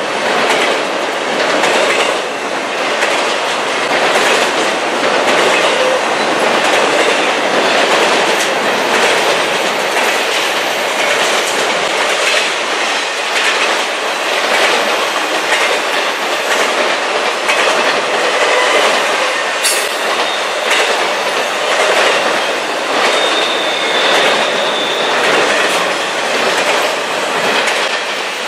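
Double-stack intermodal freight train's container well cars rolling past at speed, steel wheels running loudly over the rails with a regular clickety-clack at the rail joints. A brief high wheel squeal sounds about three quarters of the way through.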